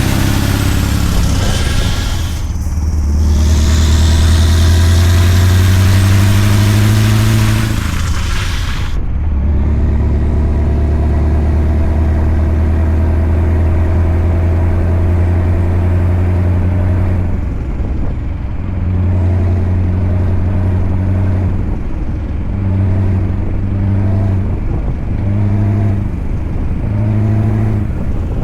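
Scania V8 diesel truck engine running. A loud hiss over it for the first nine seconds cuts off suddenly. The engine note then holds steady, and in the last ten seconds it dips and rises every second or two.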